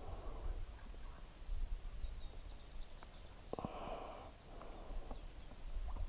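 Quiet outdoor background noise with a low rumble and a few faint, soft clicks.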